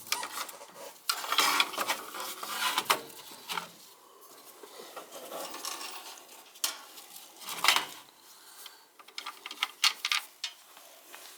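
Irregular clinks, scrapes and rustles of hand work with small metal tools and wiring, in scattered short bursts.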